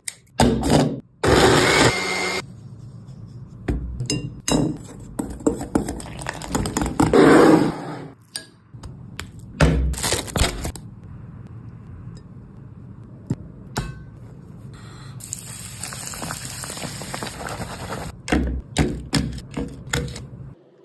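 Kitchen food-preparation sounds: utensils and dishes knocking, clicking and scraping, with a few stretches of steady noise lasting a second or more, the longest a high hiss about two-thirds of the way through.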